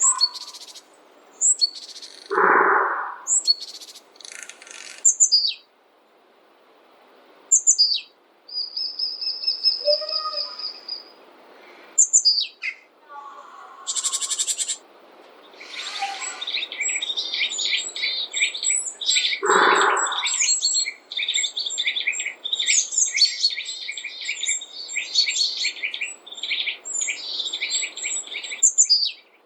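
Forest birds calling and singing: assorted short chirps and whistles, then a long, fast chattering song through the second half. Two short, lower calls stand out, one near the start and one about two-thirds through.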